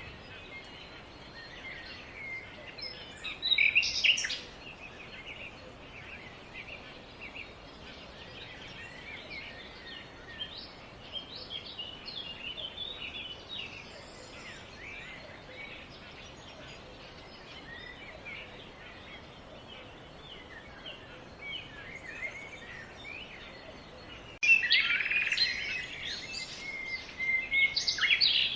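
Birds chirping and calling over a steady background hiss, with a short loud burst of calls about four seconds in and a louder, busier stretch of calls over the last four seconds.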